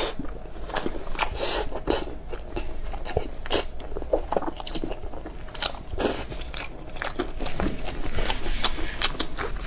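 Close-miked eating sounds: a person biting and chewing meat, with irregular crunches and wet mouth clicks.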